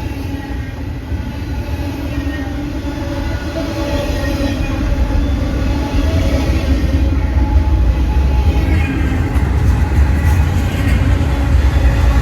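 Cars of a fast freight intermodal train rolling past: a steady heavy rumble of steel wheels on the rails, growing louder toward the end.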